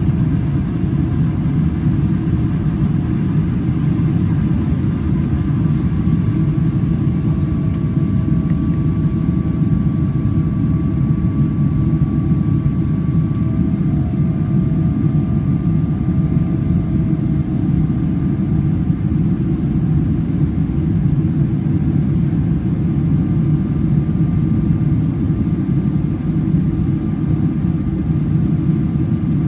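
GE90-115B turbofan engines of a Boeing 777-300ER heard from inside the cabin while the airliner climbs out after takeoff. There is a steady low rumble with faint whining tones above it that come and go.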